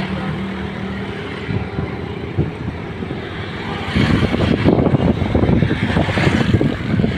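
Millat Express passenger train running, a steady rumble that gets louder about four seconds in.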